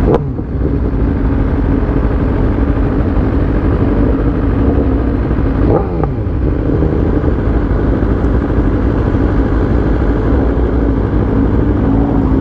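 Motorcycle engine running while riding, over heavy wind rush. The engine pitch shifts briefly at the start and again about six seconds in.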